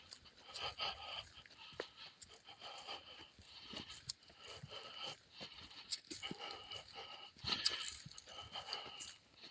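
A hiker breathing hard while walking, with a breath about every second and scattered footstep clicks.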